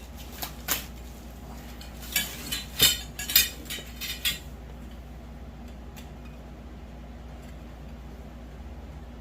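Metal grow-tent frame poles clinking and knocking together as they are handled and fitted. There is a quick cluster of sharp clinks in roughly the first four seconds, then only a low steady hum.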